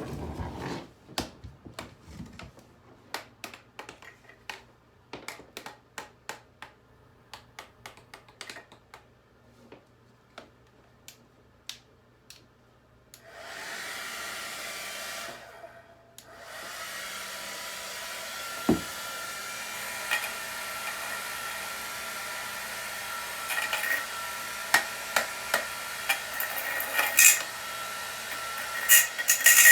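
Scattered clicks and taps of handling, then a hairdryer switched on about halfway through, briefly off, and on again, running steadily as a blowing hiss with a faint whine. Sharp crackles and pops come more and more often near the end.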